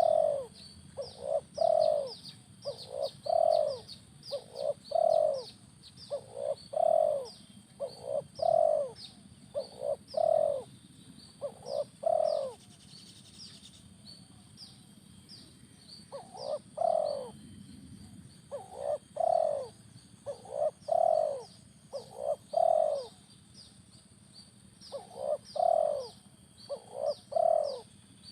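Spotted dove (terkukur) cooing: long runs of repeated low coos, pausing twice before starting up again, with thin rapid chirping from small birds above them.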